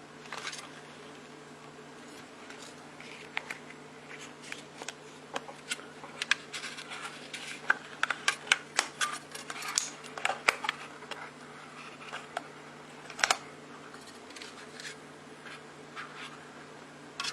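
Irregular clicks, taps and scrapes of small objects being handled and worked by hand, busiest in the middle and with one louder knock about two-thirds of the way through, over a steady low hum.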